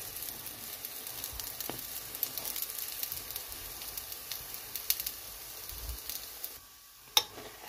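Small flatbreads frying in oil in a pan, a steady sizzle with fine crackling. Near the end the sizzling falls away and there is one sharp click.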